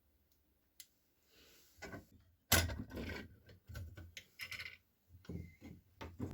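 Objects being handled by hand: a run of irregular knocks, clicks and scrapes, the sharpest knock about two and a half seconds in.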